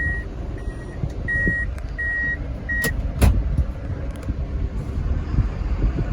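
Reversing beeper on a Mitsubishi diesel box truck, sounding short, steady beeps about three every two seconds over the low rumble of the idling diesel engine. The beeping stops about three seconds in, followed by a sharp clunk.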